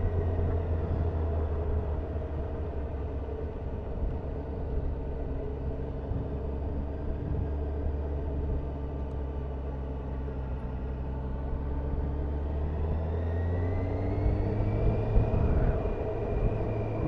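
Honda CBF motorcycle engine running while riding, heard from a bike-mounted camera with a haze of wind and road noise. The engine note rises about three-quarters of the way through as the bike accelerates, then holds.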